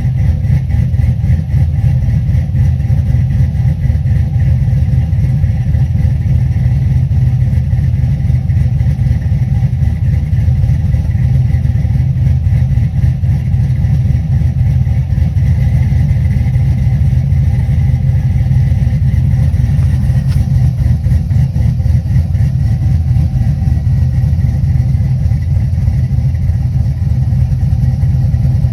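Chevrolet Silverado's cammed LS V8, with a 216/220 111 LSA camshaft and long-tube headers, idling steadily after a cold start.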